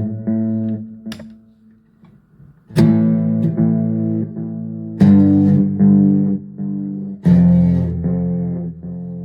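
Electric guitar chords played through a Donner Yellow Fall II digital delay and reverb pedal: three strummed chords about two seconds apart, each dying away in a series of repeating echoes.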